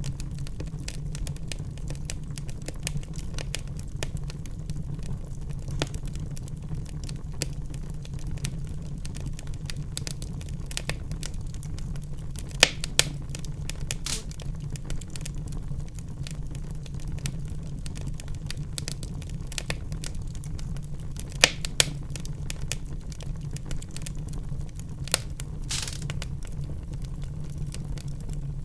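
Wood fire burning in a fireplace, crackling steadily over a low rumble of the flames, with a few louder pops now and then.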